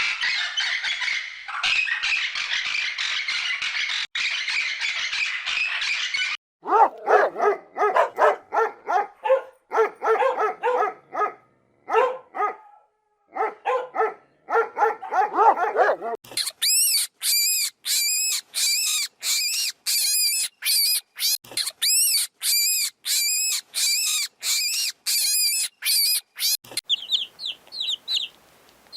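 A run of different animal calls one after another: a harsh, continuous squawking for about six seconds, then a string of short, lower calls with gaps, then rapid high chirps repeated about twice a second, fading to fainter chirps near the end.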